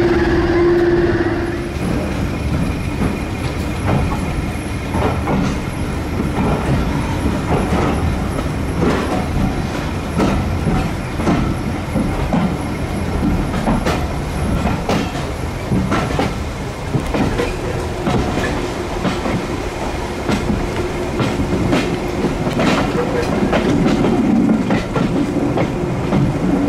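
Passenger train running, heard from a coach: rumbling and clattering with irregular wheel clicks over the rail joints. The diesel engine of British Rail Class 31 locomotive 31601 can be heard as a steady note at the very start and again from about two-thirds of the way in.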